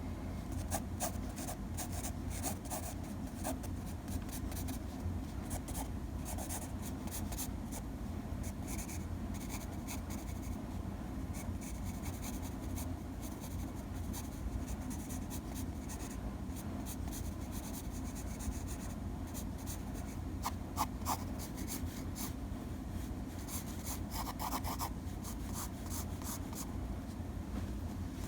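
Quick, scratchy strokes of a drawing tool on a surface, coming in irregular runs, over a steady low hum.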